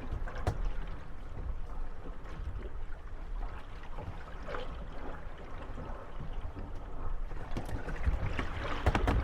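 Moored gondolas rocking on lapping water, with water sloshing against the hulls and occasional creaks and wooden knocks as the boats bump together. The knocks come in a quick cluster near the end.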